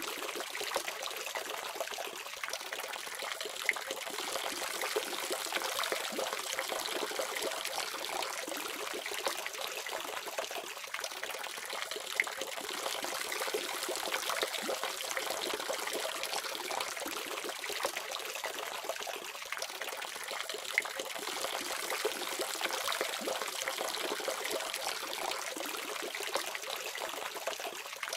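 Water faucet running in a steady stream and splashing, with a few sharper splashes now and then.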